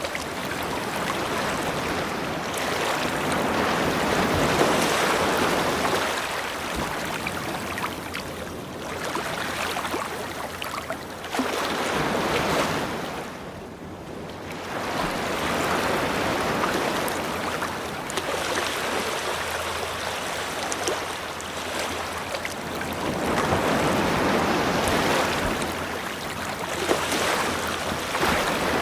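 Ocean surf washing onto a shore, a steady rush of water that swells and recedes in slow surges, with a brief lull about halfway through.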